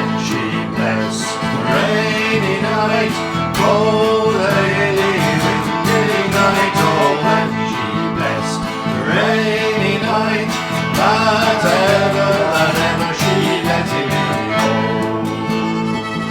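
Instrumental folk music: a fiddle plays a sliding melody over guitar accompaniment.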